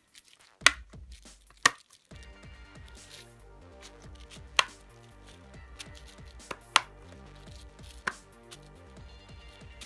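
About five sharp plastic clicks and taps at irregular intervals as the tablet's casing is handled and pressed together during reassembly, over soft background music.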